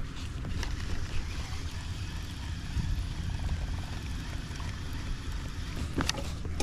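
Water and wind noise around a fishing kayak: a steady low rumble with a hiss, broken by a few sharp clicks near the start and one near the end.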